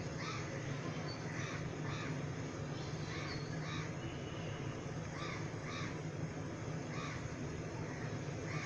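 Crows cawing, a string of short calls repeated every half second or so, over a steady low hum.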